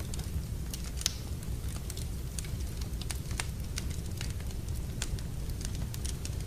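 Wood fire burning in a fireplace: irregular sharp crackles and pops, about three a second, over a steady low rumble of the flames.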